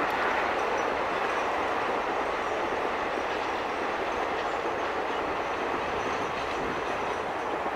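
Passenger coaches of an express train rolling over a high concrete viaduct: a steady rumble of steel wheels on rail that slowly fades as the tail of the train passes.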